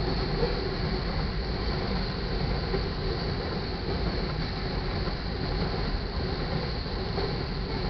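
Loaded iron ore cars of a long freight train rolling past: a steady, low rumble of steel wheels on the rails.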